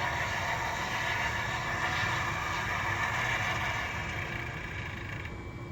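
Sound systems of three MTH model Berkshire steam locomotives playing their shutdown sequence through their small speakers: a steady hissing noise with a faint thin tone, which all three cut off together near the end.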